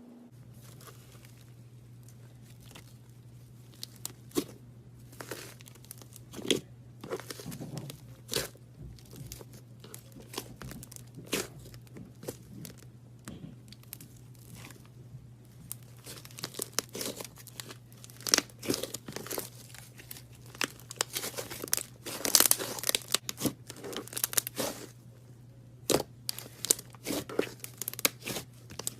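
Slime being stretched, squeezed and torn by hand: irregular crackling, snapping and tearing, sparse at first and growing denser and louder in the second half, over a steady low hum.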